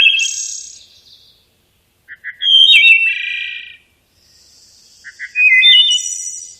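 A songbird singing the same short song over and over, about every three seconds: a few quick notes, a stepped clear whistle, then a buzzy ending.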